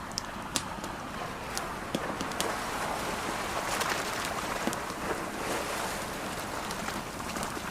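Ocean waves washing in, swelling and easing off about halfway through, mixed with a campfire crackling in frequent sharp pops.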